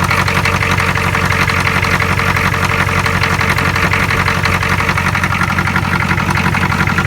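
Ford 6.9-litre IDI V8 diesel idling steadily with a rapid, even clatter, warming up after a cold start at about 25°F on ether because its glow plugs are not working.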